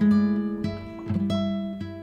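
Background music on acoustic guitar: plucked notes, a new one about every half second, each ringing on.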